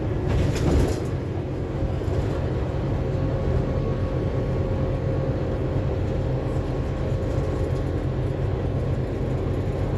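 Inside a Scania K280UB4 city bus on the move: its engine and road noise make a steady rumble with a faint steady whine over it. A brief clatter comes about half a second in.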